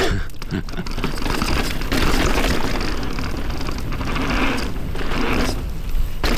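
Polygon Colossus N7 mountain bike rolling over a dirt trail: tyre noise, with chain and frame rattle over a steady low rumble of wind on the camera microphone, growing louder through the middle and with a sharp click near the end.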